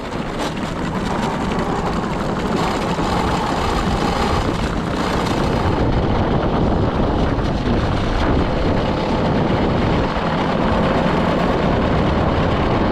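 Wind rushing hard over the microphone on a vehicle speeding downhill, mixed with rolling road noise. It builds over the first couple of seconds as speed picks up, then holds steady.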